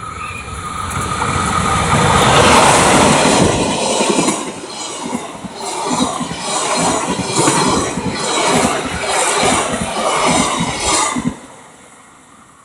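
Train passing close by: a rush of noise that swells to its loudest a couple of seconds in, then the rhythmic clickety-clack of wheels over rail joints, about two strokes a second, which stops abruptly near the end.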